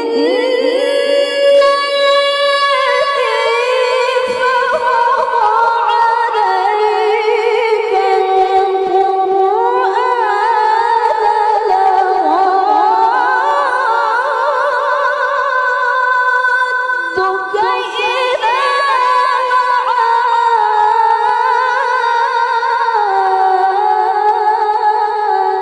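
A woman reciting the Qur'an unaccompanied in melodic tilawah style. Her voice is high and clear, drawn out in long ornamented lines with wavering, sliding notes. There is a brief break for breath about two-thirds through, and then the phrase carries on.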